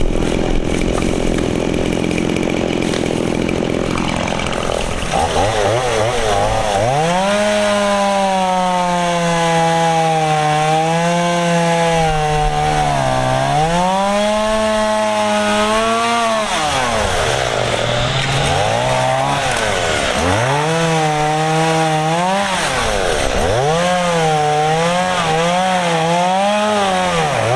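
Stihl MS 170 two-stroke chainsaw running hard, its engine note sagging and climbing back over and over as the throttle is worked, with several sharp drops in speed before revving up again.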